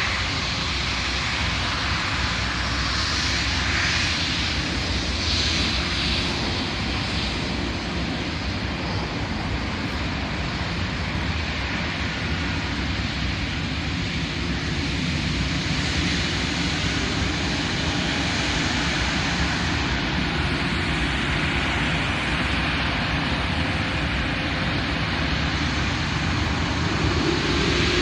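Airliner engines at an airport, a steady loud rumble and hiss; near the end a whine begins to rise in pitch.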